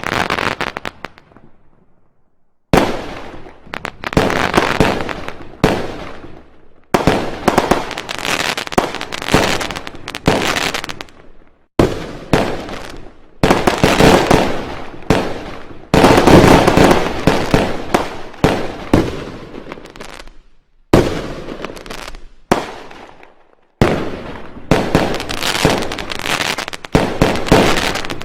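Fireworks going off: loud bangs and rapid runs of crackling firecracker reports, with brief lulls between volleys.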